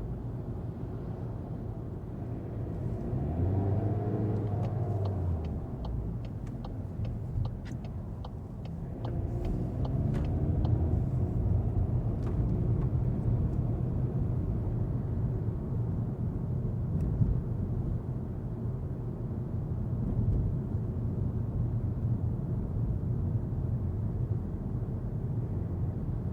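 2025 Volkswagen Golf TDI diesel driving, with a steady low engine and road rumble. The engine note rises twice as the car accelerates, about three seconds in and again about nine seconds in. Light clicks come and go in between.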